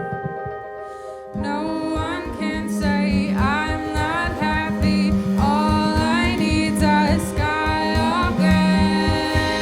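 Live band performance of a song: a held chord, then about a second and a half in the band comes in fuller with a singing voice over a steady beat.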